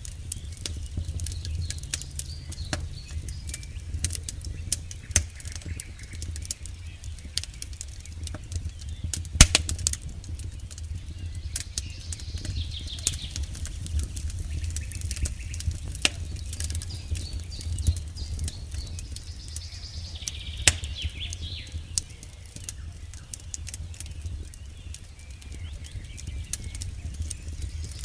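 Campfire burning, with dense irregular crackles and sharp pops over a steady low rumble. Faint chirping calls come in now and then in the background.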